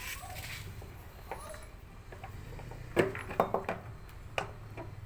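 A few sharp clinks and knocks of metal parts and tools being handled, a cluster of them about three seconds in, over a low steady hum.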